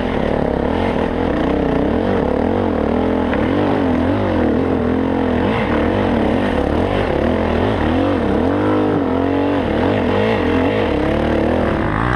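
Dirt bike engine revving up and down continuously as it is ridden over rough trail, the pitch rising and falling every second or so with throttle changes.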